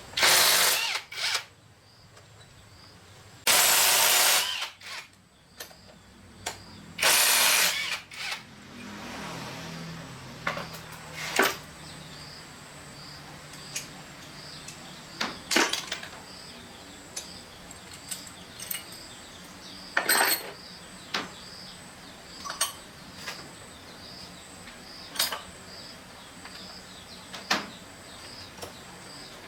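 A power tool run in three short, loud bursts, followed by scattered clicks and knocks of hand work on the parts.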